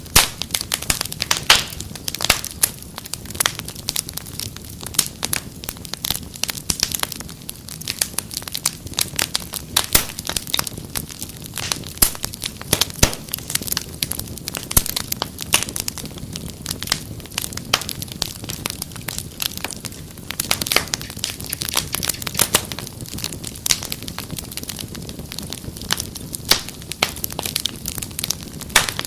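Wood fire crackling and popping: many sharp irregular snaps over a low steady rumble of burning logs.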